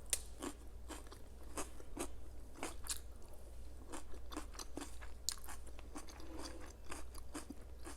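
Close-miked chewing of crunchy food: an irregular string of sharp crunches and bites with softer chewing between them.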